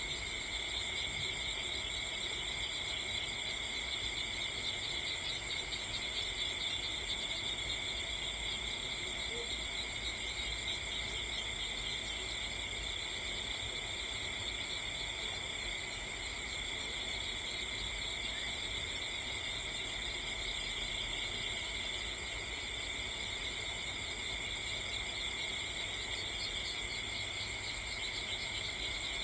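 Steady chorus of crickets: a constant shrill trill in several high pitch bands that does not let up.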